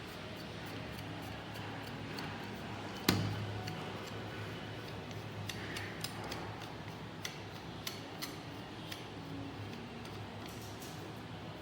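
Hand assembly of a small CNC machine: metal parts and tools clicking and clinking, with one sharper knock about three seconds in, over a steady low hum.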